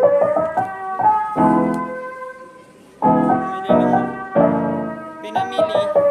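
Background music: a piano playing sustained chords, one struck about every second, with a brief fade between phrases.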